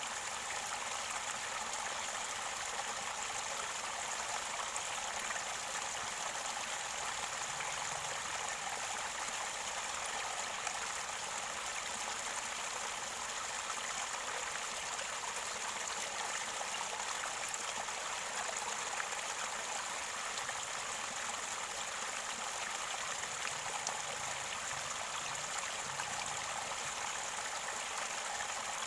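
Mountain river water running and gurgling steadily close to its spring source.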